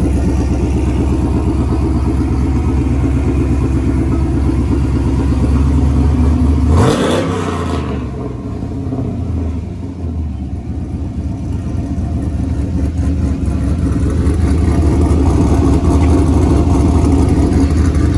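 Cammed 5.3-litre LS V8 running through a new Carven R-series muffler, idling with a steady pulsing exhaust. It blips the throttle once about seven seconds in, then drops back and settles to idle.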